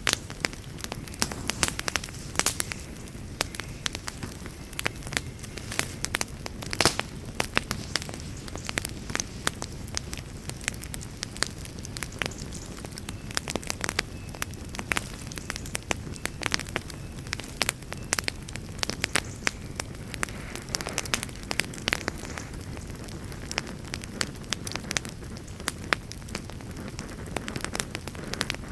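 Wood campfire crackling, with frequent irregular sharp pops and snaps and one louder pop about seven seconds in, over a low steady rush.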